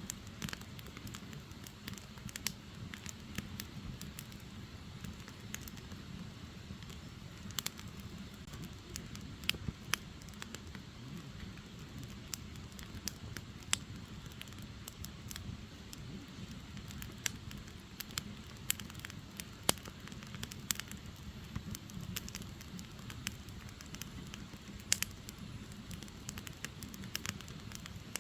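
Firewood burning: the logs crackle and pop at irregular moments over a low, steady rumble of the flames.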